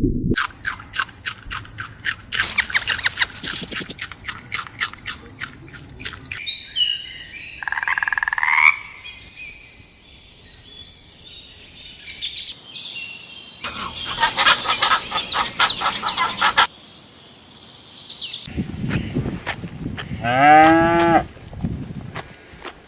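A run of separate animal calls: trains of fast, even croaking pulses, typical of frogs calling, at the start and again midway, short sliding bird chirps between them, and a brief call that bends up and down in pitch near the end.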